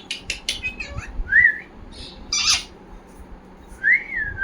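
Pet parrot making a quick run of clicks and chirps, then two short whistles that rise and fall, with a loud harsh squawk between them.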